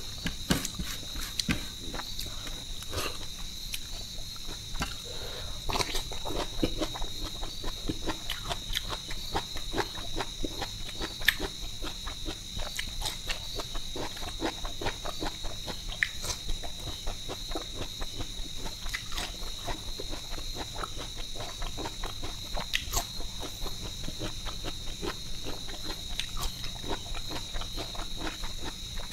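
Close-miked eating with the hands: wet chewing, lip and finger-licking clicks scattered throughout, over a steady high trill of insects.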